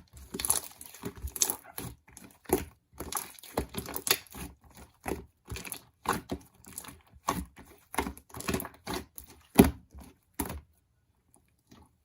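Slime being squished and pressed by hand: a quick run of sticky clicks and pops that stops about ten and a half seconds in.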